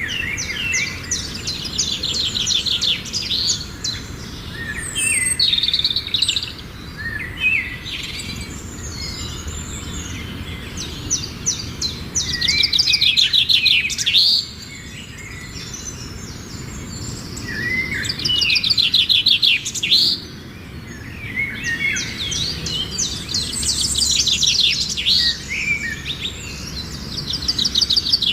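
Small birds singing, with fast trilled phrases and chirps repeating every few seconds, over a steady low background rumble.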